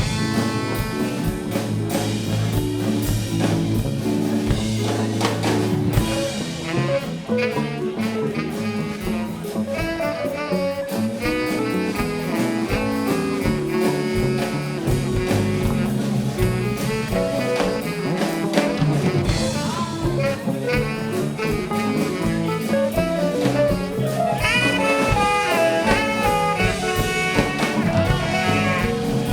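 Live band playing jazz with a drum kit keeping a steady groove; a higher lead line with sliding notes comes in near the end.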